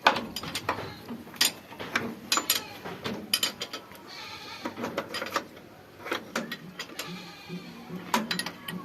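Metal tools and tractor parts clinking and tapping in quick, irregular knocks, with a wavering pitched cry in the background.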